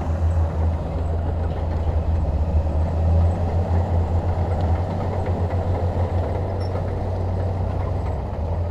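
Bulldozer's diesel engine running steadily with a strong, even low hum, no revving.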